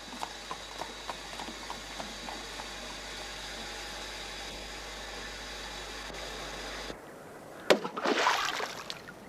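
Horse hooves clopping faintly and thinning out over a steady rushing noise like running water. After a cut, a short loud rough burst comes about eight seconds in.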